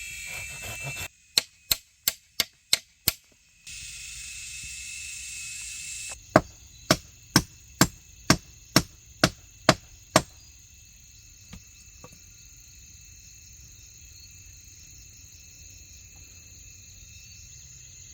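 A blade chopping bamboo in two runs of sharp strikes, about three a second for six blows, then a steadier nine blows about two a second, followed by two faint knocks.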